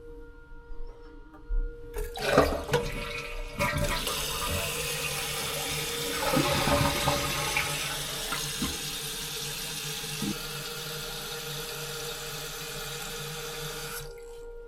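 A toilet flushing: a few clunks about two seconds in, then water rushing loudly and evenly through the bowl and tank, cutting off suddenly near the end. Soft background music with a held tone underneath.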